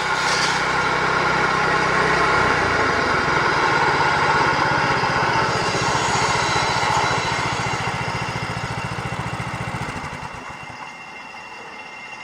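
Homemade band sawmill's engine running steadily, then winding down and going quiet about ten seconds in.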